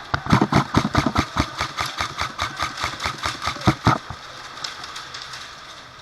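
Airsoft gun firing one long automatic burst, about eight shots a second, stopping about four seconds in.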